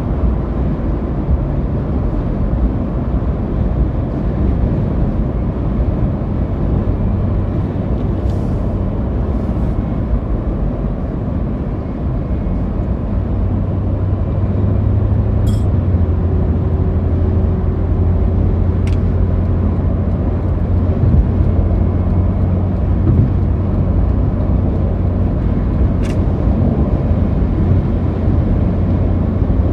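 Road and engine noise of a vehicle driving at speed, heard from inside the cab: a steady low rumble, with a low hum that grows stronger about halfway through and a few faint clicks.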